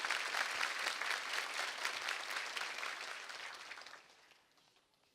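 Audience applauding in a hall, fading away over a few seconds.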